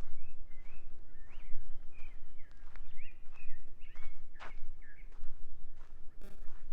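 A songbird singing a run of short whistled notes that swoop up and down, over footsteps on a path and a steady low rumble.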